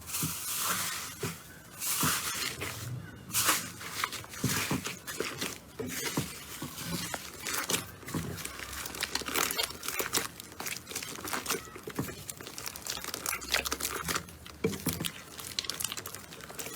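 Slime being squished and stretched by hand, giving a string of irregular crackling clicks and small pops.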